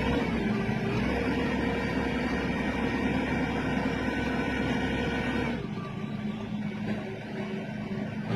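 Crane's diesel engine revving up and holding a high, steady speed, then easing back about five and a half seconds in.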